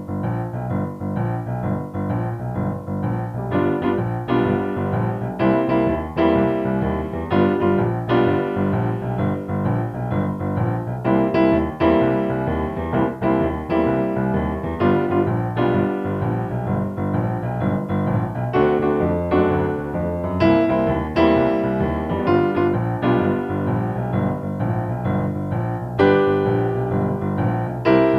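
Piano playing a tune with dense chords and a steady rhythm.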